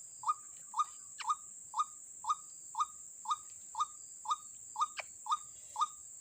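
White-breasted waterhen calling: a short, identical note repeated steadily about twice a second.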